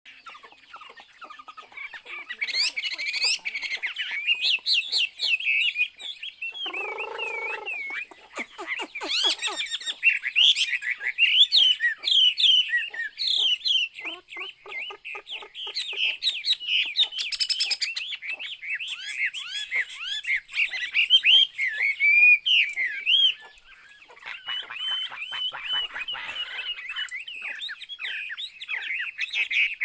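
Chinese hwamei (melodious laughing thrush) singing a long, varied song of rapid whistled phrases and trills that glide up and down, with a brief lower, harsher note about seven seconds in.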